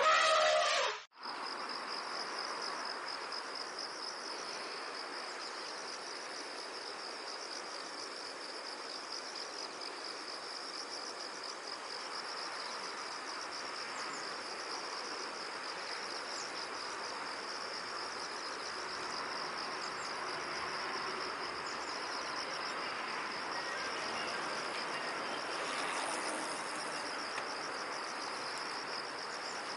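A cricket trilling, a steady, fast-pulsing high trill that goes on without a break. Right at the start a louder animal call cuts off about a second in.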